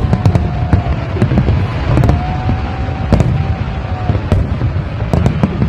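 Fireworks going off in quick succession: many sharp bangs and cracks over a continuous low rumble of bursts.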